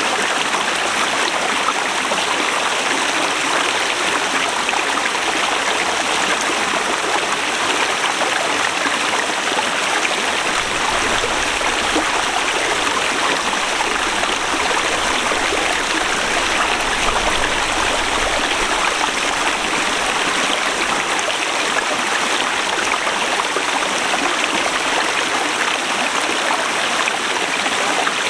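Forest river flowing, a steady rush of water with no let-up.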